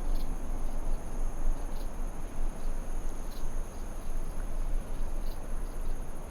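Insects trilling without a break at two high pitches, over a steady low rushing noise, with a short high chirp about every two seconds.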